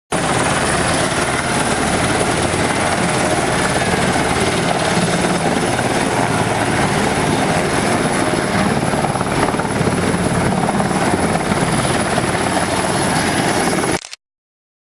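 Helicopter running loud and steady, with a thin high whine over the noise of rotor and engine. The sound cuts off suddenly about a second before the end.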